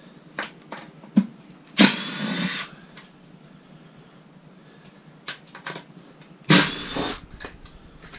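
Power drill run in two short bursts of under a second each, about four seconds apart, the first with its motor speeding up; sharp clicks and knocks of handled metal in between.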